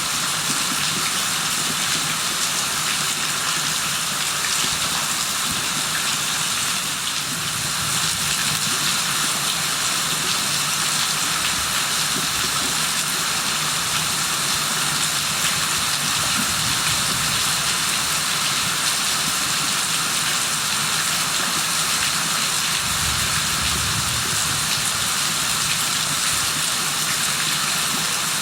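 Heavy rain falling steadily, an even hiss of rain on surfaces that holds at the same level throughout.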